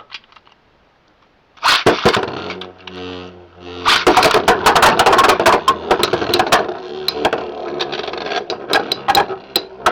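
Beyblade X spinning tops launched into a plastic stadium: a brief launcher whirr, then a long stretch of rattling with many sharp clicks as the tops clash and grind around the stadium.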